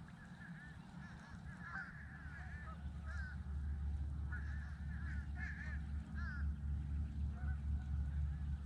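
A flock of geese honking, many short calls overlapping all the way through. A low rumble underneath grows louder about three seconds in.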